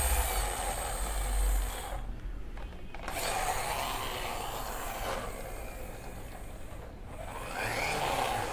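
Plastic toy bus rolled hard against a surface, its wheels and gearing rasping and whirring, with a short break about two seconds in and a brief rising whine near the end.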